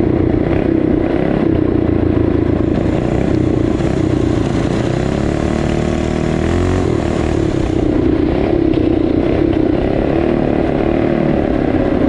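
Small four-stroke single-cylinder trail bike engine running under way, its pitch rising and falling again and again as the throttle is worked.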